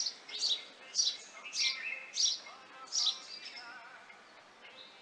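A small songbird chirping: about six short, high chirps in three seconds, each falling in pitch, with softer, lower twittering between them, then fading out.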